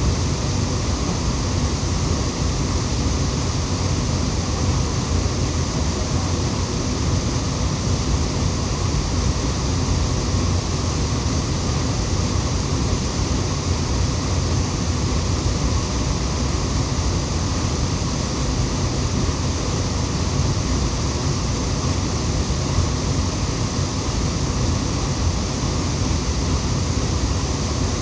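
Waterfall pouring steadily: an even, unbroken rush of falling water, heaviest in the low end.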